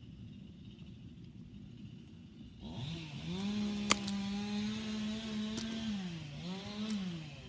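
Engine-like revving drone that comes in about three seconds in, rises in pitch and holds steady, then dips and climbs again twice near the end. A sharp click about a second after it starts.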